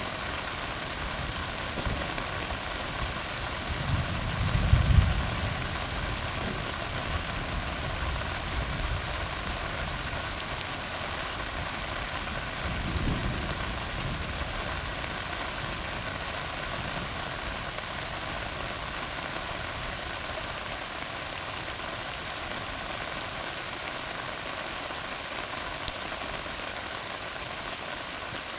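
Steady rain falling on a tar road, an even hiss of drops on the wet asphalt. A brief low rumble comes about four seconds in, the loudest moment, and a softer one about halfway through.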